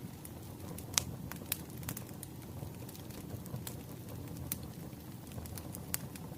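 Wood fire burning with a steady low rumble and scattered sharp crackles and pops; the loudest pop comes about a second in.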